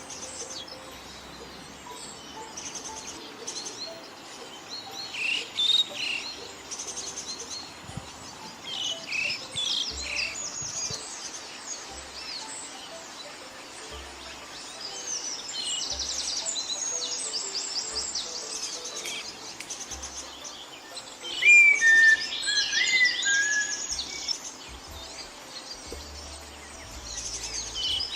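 Several wild birds chirping and calling in rapid short notes and trills, with a louder run of whistled notes about three-quarters of the way through.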